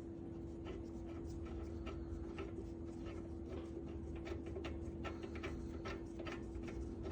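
Scattered light clicks and taps, irregularly spaced, of small metal parts and tools being handled, over a steady low hum.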